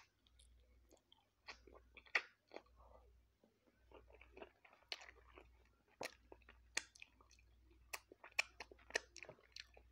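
A person chewing close to the microphone: irregular wet clicks and smacks, several a second, with a few sharper crunches standing out.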